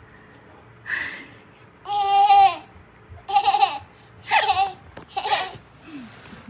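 A baby babbling and laughing in about six short high-pitched bursts with brief pauses between them.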